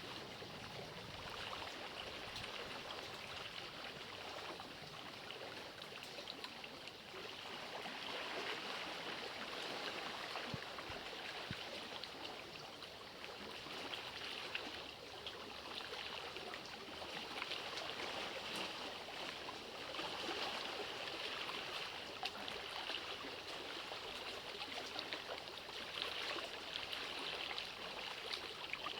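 Water trickling and running steadily, a continuous even rush with small splashing ticks scattered through it.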